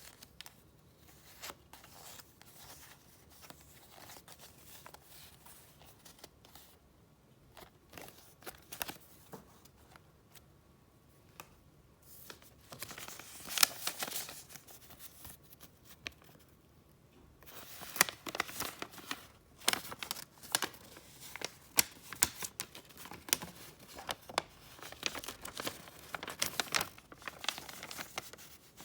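Paper and packaging being handled by hand: rustling and crinkling with sharp little clicks and taps. Sparse and quiet for the first part, then much busier from about halfway.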